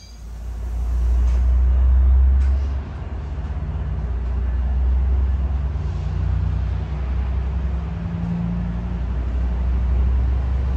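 A Sounder commuter train, bilevel coaches worked by an EMD F59PHI diesel locomotive, rolling past: a steady deep rumble that swells to its loudest about two seconds in, with a faint hum of steady tones over it.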